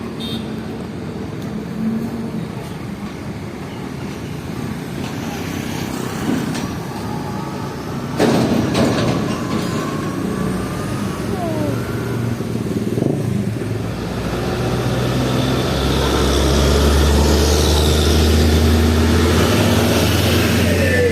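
Heavy diesel trucks moving in traffic, with a sudden loud burst about eight seconds in; from about fourteen seconds a heavy truck's engine grows louder and stays strong as it passes close.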